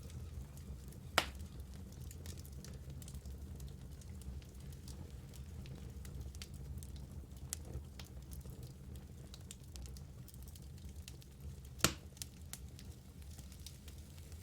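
Wood fire burning in a fireplace: a low steady rumble of flame with scattered crackles and two sharp pops, one about a second in and one near the end.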